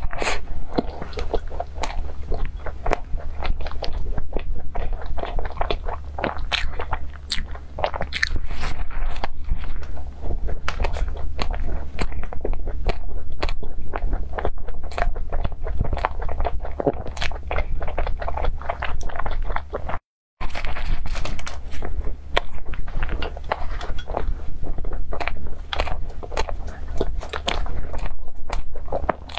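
A person biting and chewing cream puffs with a crumbly crackle topping and a whipped cream filling: many small irregular crunches and mouth clicks. There is a brief cut to silence about two-thirds of the way through.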